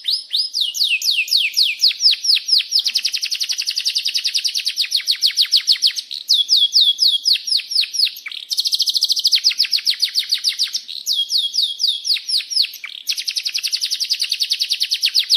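Domestic canary singing a long rolling song: fast trills of repeated downward-sweeping chirps, the phrase changing every second or two. It stops abruptly at the very end.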